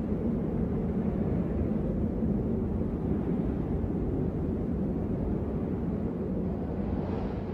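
Steady low rumbling noise with no distinct events, the kind of sound heard on blizzard footage.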